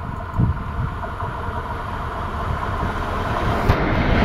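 Diesel locomotive hauling a passenger train approaching, its engine running and growing steadily louder as it draws alongside near the end.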